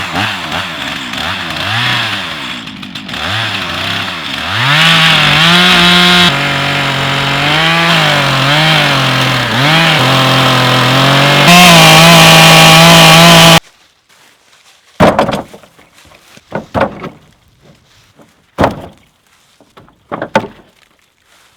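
Gas chainsaw cutting through a log, its engine revving up and down under load for about thirteen seconds, then stopping abruptly. A few separate knocks follow in the last several seconds.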